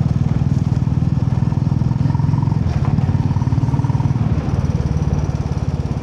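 Royal Enfield Classic 350's single-cylinder engine running steadily under way, with its even beat of exhaust pulses. The engine eases off slightly about four and a half seconds in.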